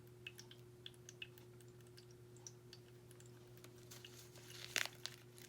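Faint, scattered small clicks and taps of hands handling small jewelry components and their packaging, over a faint steady hum, with a sharper click near the end.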